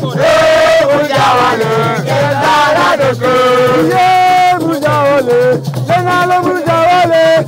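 Loud group music: singing voices carrying a melody over a shaken rattle.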